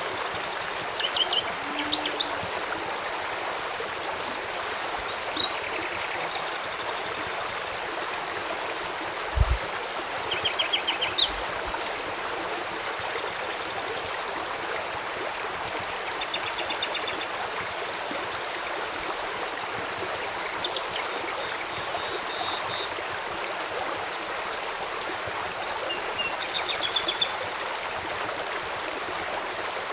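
Steady rush of a flowing river, with scattered short ticks and chirps throughout and one held high whistle about halfway through.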